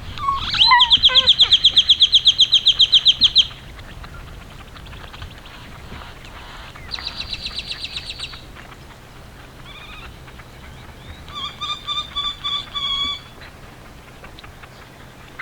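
Wild birds calling: a loud, rapid high trill lasting about three seconds, a shorter softer trill a few seconds later, then a quick run of short, clear repeated notes near the end.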